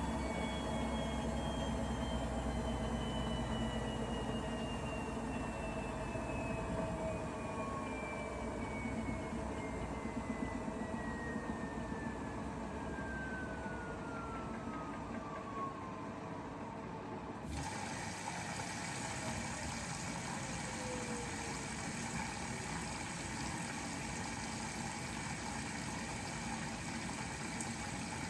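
Bosch Serie 4 washing machine winding down from a spin. The motor whine falls steadily in pitch over about twenty seconds as the drum slows, and the deep rumble of the fast spin fades within the first several seconds.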